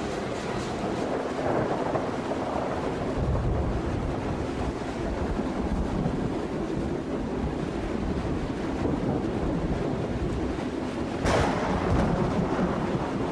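Steady rumbling noise of a moving freight train, with rain and wind, and one sudden sharp crash about eleven seconds in.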